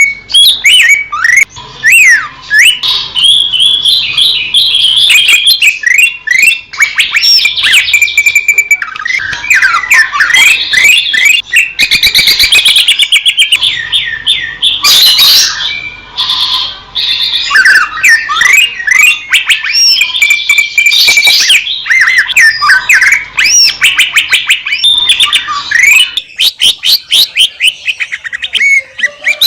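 Cucak ijo (green leafbird) singing a loud, rapid, varied song of fast up-and-down whistled notes and chattering phrases, almost without a break.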